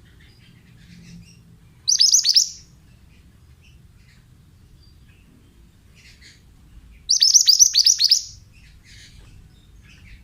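Pied bushchat (mantenan) singing: two short, loud, rapid phrases of high notes, one about two seconds in and a slightly longer one about seven seconds in, with faint chirps between them.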